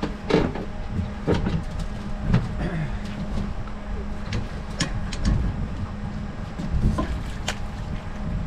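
A steady motor hum on a boat, with scattered knocks and clicks from handling gear on deck and some low thuds.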